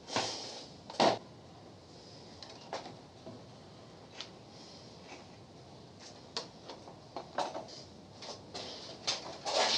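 Irregular clicks, taps and light clatter of tools and small parts being handled during bench repair work on a microwave's wiring. There are two louder knocks near the start and another burst near the end.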